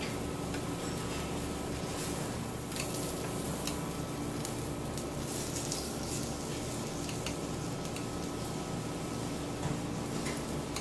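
Vegetable slices frying in oil in a hot pan: a steady sizzle with scattered small crackles and pops. Road traffic from outside runs underneath.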